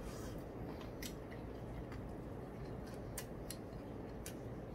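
Chewing a fried chicken wing, with a handful of sharp, wet mouth clicks scattered a second or so apart, over a steady low hum.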